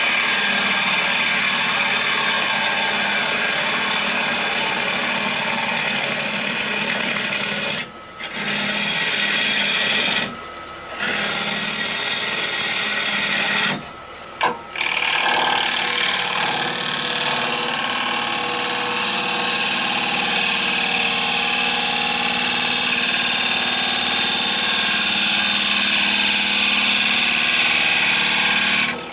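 Wood lathe running with a tool working the spinning rowan bowl, a steady loud hiss over the motor's hum. The sound drops out abruptly and briefly a few times.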